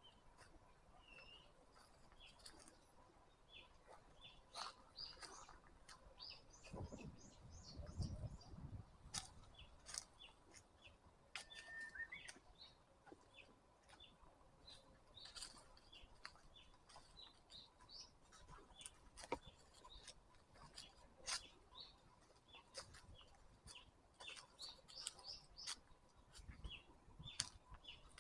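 Forest songbirds chirping and calling, faint: many short high chirps and quick trills throughout. A low rumble about a quarter of the way in, and briefly again near the end.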